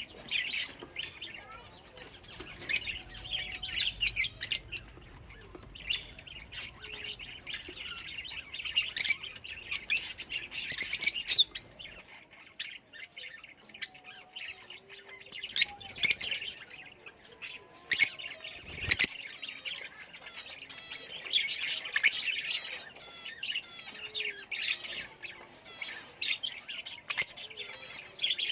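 A group of lovebirds chattering with rapid, high-pitched chirps and sharp calls in irregular bursts throughout.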